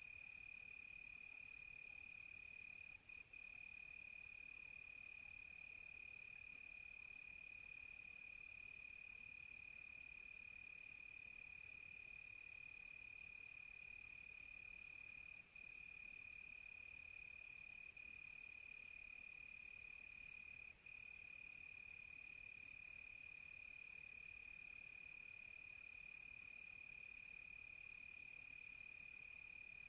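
Crickets chirping: a faint, steady, continuous high trill, with a second, faster-pulsing insect chorus above it that drops out for several seconds midway and then returns.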